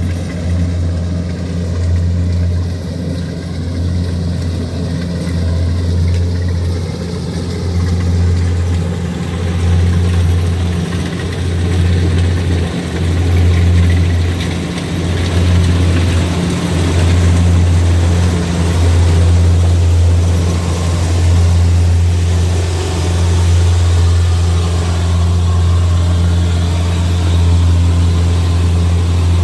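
Kubota DC-70G Plus combine harvester running steadily with a continuous low engine hum, growing slightly louder after the middle.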